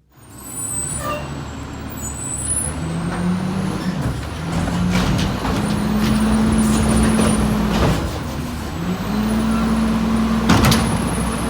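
Heavy truck engine running and pulling, its note rising and dropping several times, with a short sharp hiss about ten seconds in.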